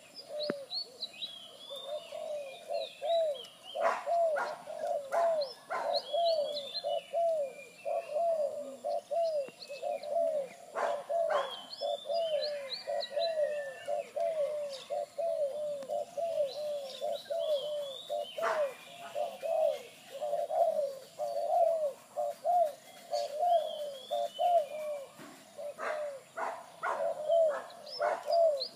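Zebra doves cooing continuously in rapid runs of short, bubbling notes, two birds calling against each other. Small birds chirp high above them now and then.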